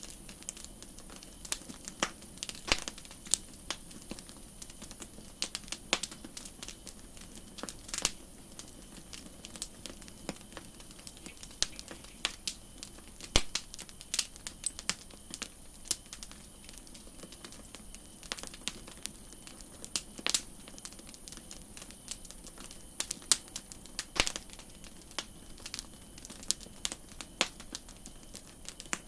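Campfire crackling: irregular sharp pops and snaps from burning wood over a steady low hiss, with a few louder pops scattered through.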